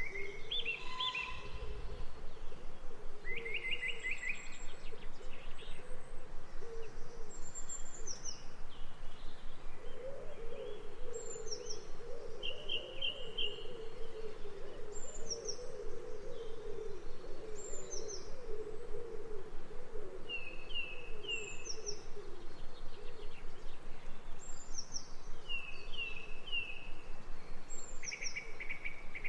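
Wild birds calling: a short high falling call repeated about every two seconds, with brief trilling phrases, over low wavering hoot-like calls that are strongest in the middle.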